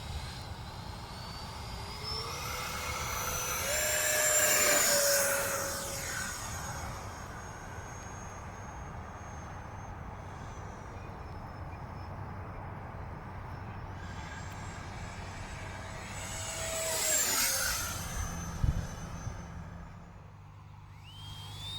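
Electric ducted-fan RC model jet flying past twice, about four seconds in and again later on. Each time its high fan whine swells as it approaches and drops in pitch as it goes by.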